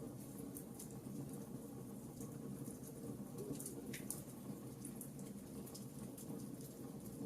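Wood campfire burning, with irregular small crackles and pops over a steady low rumble; one sharper pop about four seconds in.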